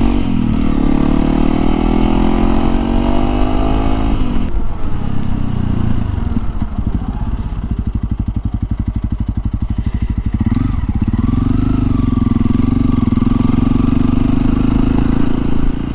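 Honda CRF300L single-cylinder engine under way: revs rising steadily for about four seconds, then dropping to a low, pulsing run, and picking up again about ten seconds in to hold a steady pitch.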